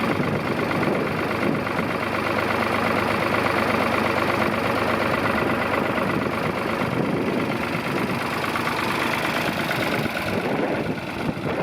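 Ford 2000 tractor's three-cylinder engine running steadily at idle, with a fast, even pulse.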